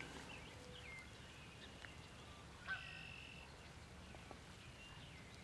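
Faint outdoor background with scattered wild bird calls: a few short high chirps and whistles, the sharpest one a little before the middle.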